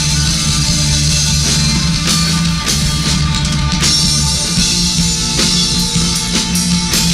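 Loud rock music: a drum kit with cymbal hits over held, distorted electric guitar and bass.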